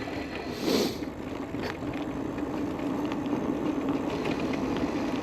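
Aventon Level 2 e-bike riding along: a steady hum with faint ticking from the drivetrain, and a brief rush of noise about a second in.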